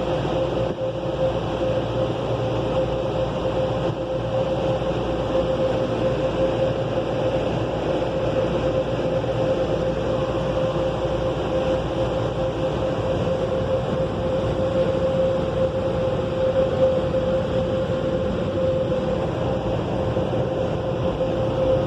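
Belanger car wash dryer blowers running, a loud steady rush of air with a constant whine held throughout.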